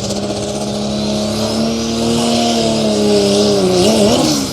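Engine of a pulling truck or tractor running hard at high revs under load during a pull. It is loud and steady, its pitch creeping up and then wavering and dropping near the end, with a hiss over the top.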